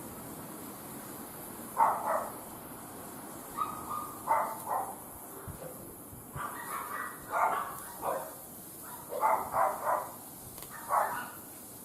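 A dog barking repeatedly in short barks, some in quick pairs and threes, over a faint steady hiss.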